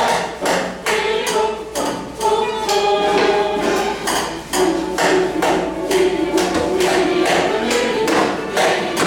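Rhythmic percussion played on recycled and reused household objects, struck in a steady beat about two to three times a second, with held pitched tones over it.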